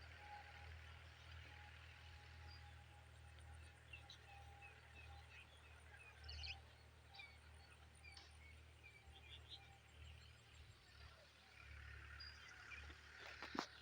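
Faint rural ambience: a low steady rumble, with a bird chirping a run of short notes through the middle. A single sharp knock comes just before the end.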